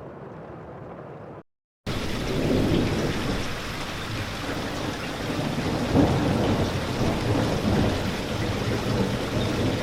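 A quieter, muffled low rumbling noise cuts off after about a second and a half. After a brief silence, heavy rain starts abruptly, with a deep rumble of thunder under it that swells about six seconds in.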